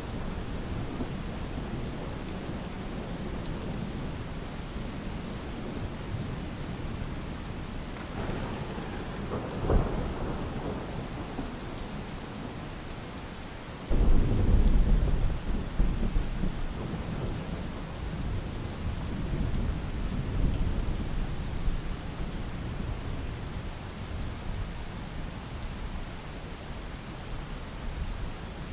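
Steady rain falling, with thunder: a low rumble swells partway in, then a sudden loud thunderclap about halfway through rolls on and fades over several seconds.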